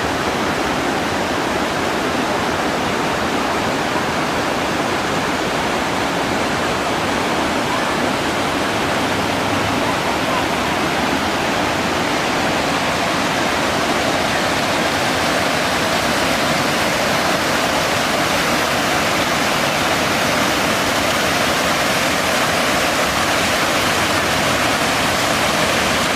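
Rushing water running steadily, a dense even noise that holds the same level throughout.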